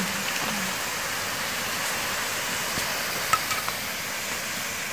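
Chilies, lemongrass and lime leaves sizzling steadily in a hot wok, with a few light metallic clicks about three and a half seconds in.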